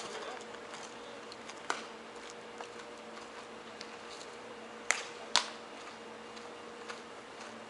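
A few sharp knocks: one about two seconds in, then two louder ones half a second apart about five seconds in, over a faint steady hum.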